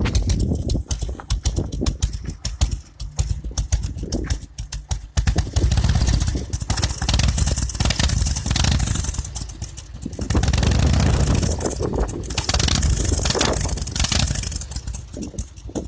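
1998 Harley-Davidson Dyna Wide Glide's 1340 cc Evolution V-twin running through its stock non-catalyst mufflers with an uneven potato-potato idle. The throttle is opened three times for longer, louder stretches, starting about five seconds in.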